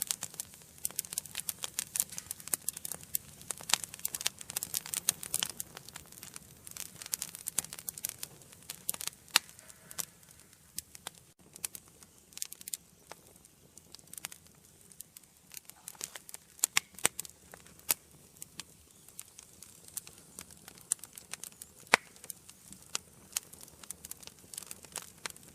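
Wood fire burning in an indoor fireplace, crackling and popping in quick irregular snaps over a faint steady hiss of flame. The crackles come thickest in the first few seconds and thin out later, with a few louder pops along the way.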